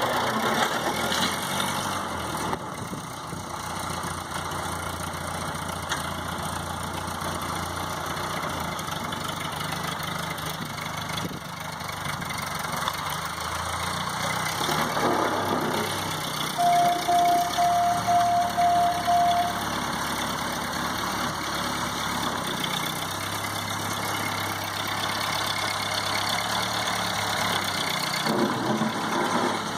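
A 1952 Ford 8N tractor's four-cylinder flathead gasoline engine running steadily. A run of about seven short, evenly spaced beeps at one pitch sounds over it partway through.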